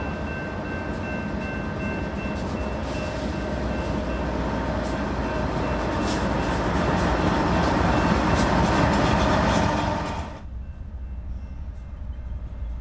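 Train passing close by, a steady rumble of wheels on rail with scattered clicks, growing louder and then dropping off suddenly near the end.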